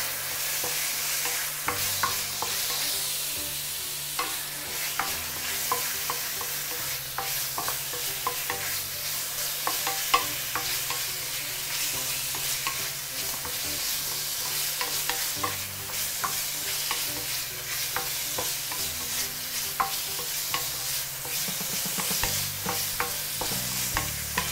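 Marinated chicken pieces sizzling in oil in a hot wok while being stir-fried, with a spatula scraping and clicking against the wok many times at an uneven pace.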